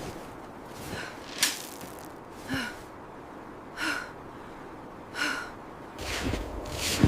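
Five short, breathy gasps or exhalations, about one every second, over a faint background; near the end a low, wind-like noise swells up.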